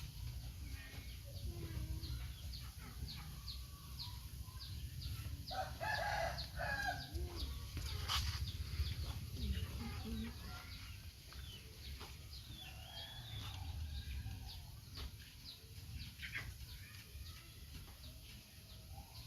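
Animal calls: many short high chirps throughout, with a louder call about six seconds in, over a steady low rumble.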